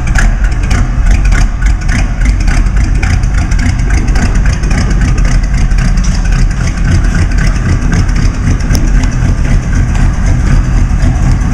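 1949 Mercury's flathead V8, fitted with Offenhauser heads and triple carburettors, running steadily at idle through open side pipes, loud and deep.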